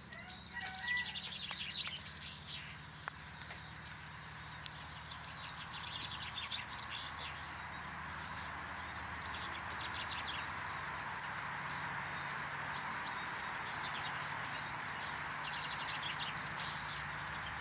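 Small garden birds chirping and twittering at a bird table, many short high calls and trills, over a steady hiss that grows louder about five seconds in.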